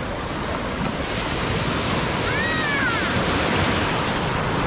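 Sea surf washing onto a beach, a steady rushing hiss. About two and a half seconds in there is one brief high voice that rises and falls, like a distant shout.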